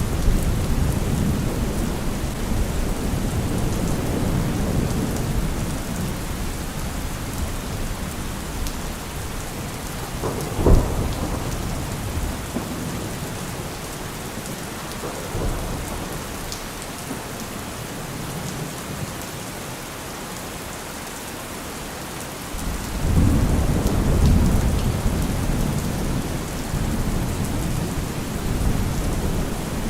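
Thunderstorm with steady rain and rolling thunder. The low rumbling at the start dies away, a sharp thunderclap cracks about a third of the way in, and a new rumble swells up about three quarters of the way through.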